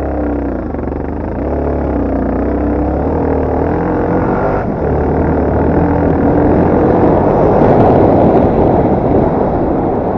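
Yamaha TT250R single-cylinder four-stroke motorcycle engine being ridden, its pitch rising and falling repeatedly with the throttle. A rushing noise grows louder about three-quarters of the way through.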